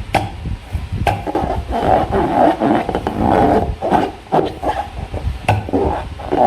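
Slime being squeezed and handled, with repeated wet squelching bursts and a few sharp clicks.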